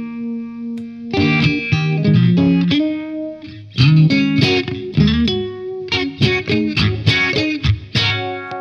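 Electric guitar (an AcePro Telecaster with Pribora pickups) played through an Origin Effects Revival Drive overdrive pedal into a VHT amp, with lightly driven tone: a chord rings out, then from about a second in a run of picked chords and single notes with a few sliding notes.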